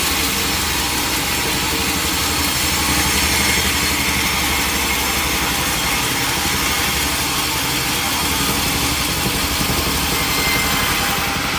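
Sawmill machinery running steadily, a continuous engine-like drone that does not change.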